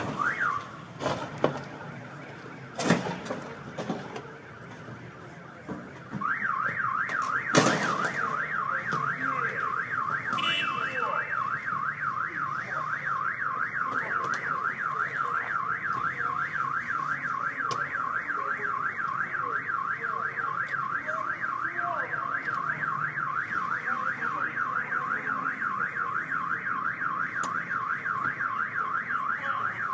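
An electronic alarm starts about six seconds in, after a few sharp knocks, and keeps up a fast, even warble that sweeps up and down several times a second.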